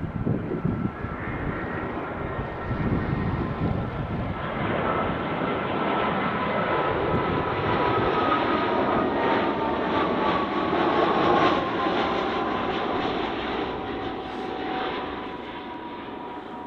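Jet airliner on final approach passing overhead: a steady engine whine with a rushing roar, rising to its loudest about two-thirds of the way through, the whine sliding slowly down in pitch as it passes, then fading.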